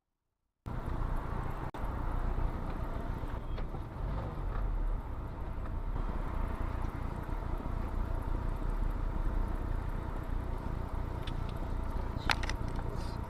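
Steady noise of a car driving, starting suddenly less than a second in, with a few faint clicks and one sharper click near the end.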